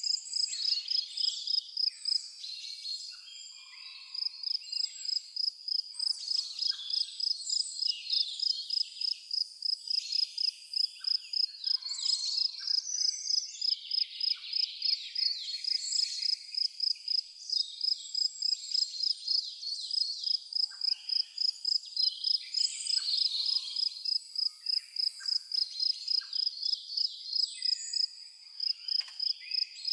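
A cricket chirping in a fast, even rhythm, pausing briefly twice, with songbirds chirping and singing over it.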